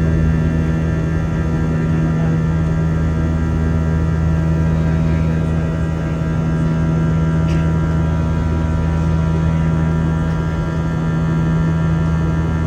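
Steady drone inside the cabin of an Airbus A320 in flight: jet engine hum and airflow noise, with a strong constant low hum and several steady higher tones.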